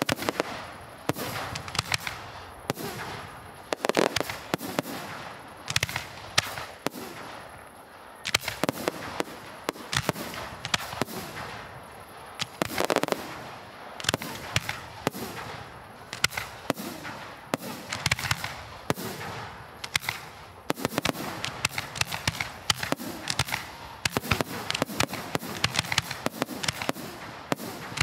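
Aerial firework shells, 75 to 150 mm, bursting in a dense, irregular barrage of sharp bangs, several a second at times, with no break.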